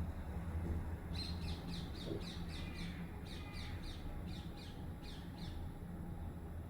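Washing machine running with a steady low hum. About a second in, a quick series of short, high, falling chirps, about three a second, comes over it for roughly four seconds and then stops.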